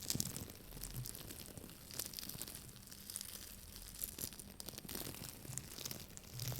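Soft, irregular crackling and scratching as an object is handled close to the microphone.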